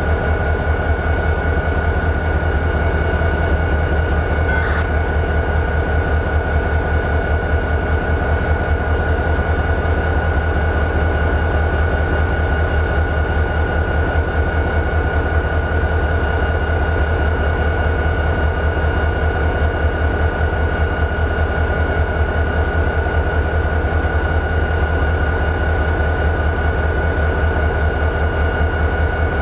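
EMD 16-645E3 turbocharged V16 diesel of a CSX GP40-2 locomotive idling: a steady, fast-pulsing low rumble with a constant high-pitched whine over it.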